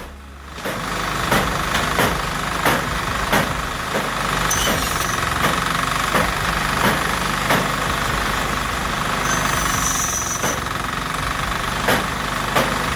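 Engine-driven firewood saw-and-splitter machine running steadily, with a sharp knock about one and a half times a second and a brief high squeal about ten seconds in.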